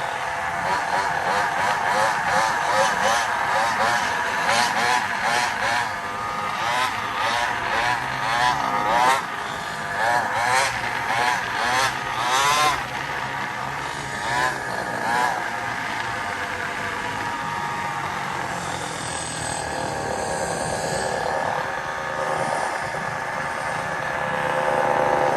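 Small gasoline engine of a little motorbike running under riding, its pitch rising and falling quickly over and over as the throttle is worked, then settling to a steadier drone in the second half.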